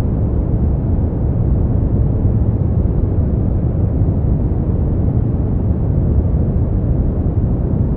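Brown noise: a steady, deep rumbling hiss, loudest in the bass and rolling off toward the treble, with no change throughout.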